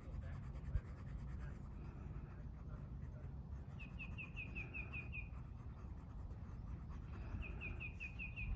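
Coloring strokes scratching steadily across paper, while a bird twice gives a quick trill of about eight repeated chirps, about four seconds in and again near the end.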